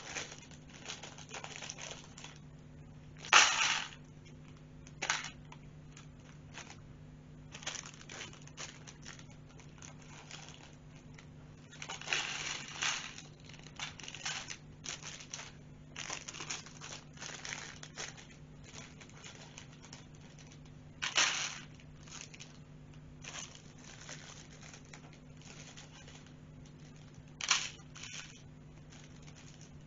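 Plastic LEGO parts bags being crinkled and torn open, an irregular rustling with three sharper, louder tears: one a few seconds in, one about two-thirds through and one near the end.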